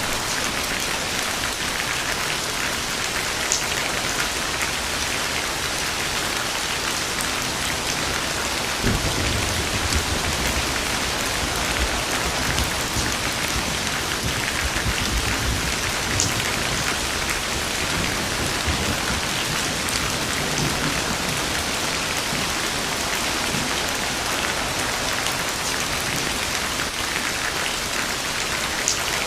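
Steady heavy rain falling, with a low rumble of distant thunder rolling in about nine seconds in and fading over a few seconds, and fainter rumbles after.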